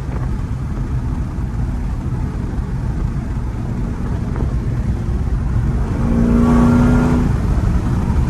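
Supercharged 6.2-litre V8 of a tuned Camaro ZL1 1LE running hard under way, a steady low drone. About six seconds in it gets louder for a second or so, holding a steady pitched note.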